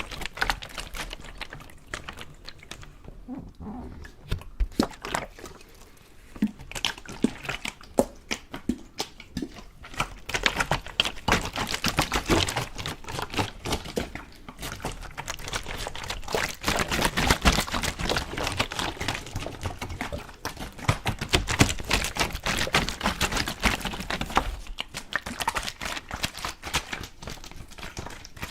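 Water handled close to the microphone: a dense, irregular run of small clicks and splashes that grows busier about ten seconds in and thins out near the end.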